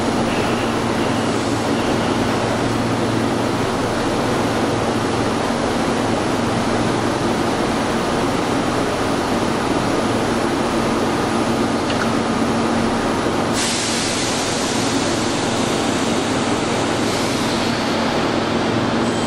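Keihan 3000-series commuter train standing at an underground platform: a steady hum with a constant low tone and a wash of noise. A higher hiss starts abruptly about two-thirds of the way in and holds steady.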